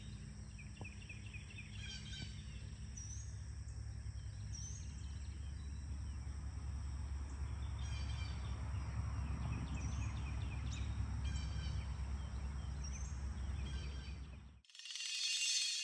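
Wild songbirds chirping and trilling from the woods in short scattered calls, over a steady low rumble. About fourteen and a half seconds in, the outdoor sound cuts off and a short, high, sparkling shimmer plays.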